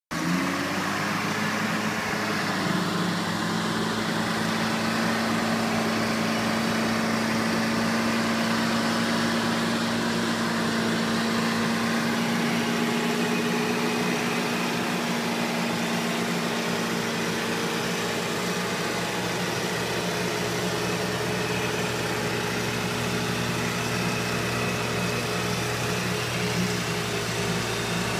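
Off-road vehicle's engine running steadily at low revs, its pitch rising briefly in the first second.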